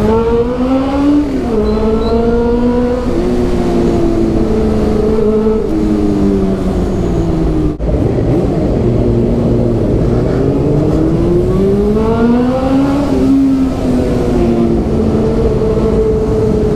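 Honda CB400 inline-four engine through a Two Brothers aftermarket exhaust, pulling under throttle while riding. The revs climb and drop as it shifts up about a second in, then ease down. The revs climb again from about ten seconds and drop near thirteen seconds, with wind noise underneath.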